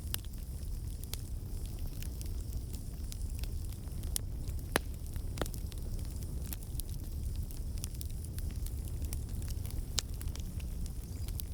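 Campfire burning: scattered sharp crackles and pops of burning wood over a steady low rush of flame. A louder pop comes about five seconds in and another near ten seconds.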